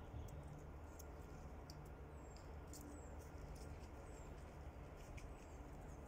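Quiet forest ambience: scattered faint, very high-pitched chirps and ticks from small birds, several of them short falling notes, over a low steady rumble.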